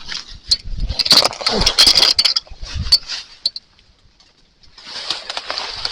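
Footsteps crunching and sliding through dry leaves and twigs while scrambling down a steep slope, in two irregular spells of crackling with a brief pause between them.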